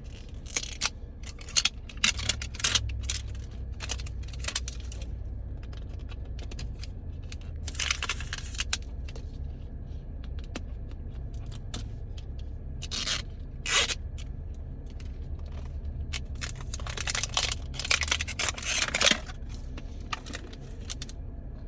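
Crinkly plastic packaging of a Mini Brands capsule being torn and peeled open, in several bouts of crackling and ripping, over a steady low hum.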